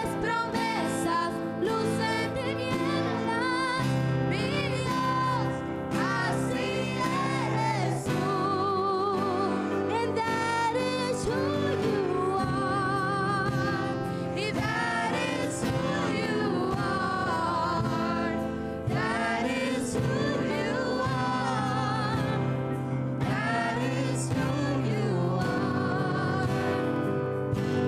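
Live gospel worship music: voices singing with vibrato over sustained low accompaniment notes.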